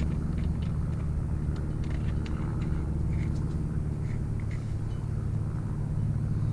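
Steady low hum with scattered light clicks and taps of small metal parts and tools being handled while a motorized-bicycle engine is taken apart.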